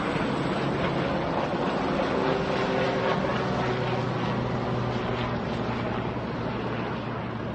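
Helicopter flying past: a steady drone of rotor and turbine, with a faint engine tone that sits a little lower in the second half.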